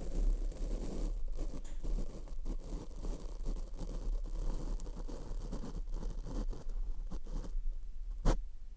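Close-up mic licking: wet, scratchy rubbing on the microphone with continuous crackling and small clicks, and one sharp click near the end.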